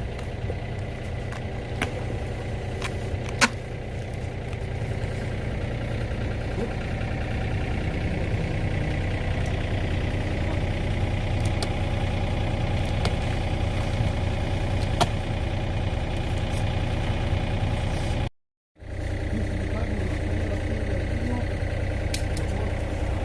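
Excavator's diesel engine running steadily, with scattered sharp clicks and knocks over it. The sound cuts out for about half a second near the end.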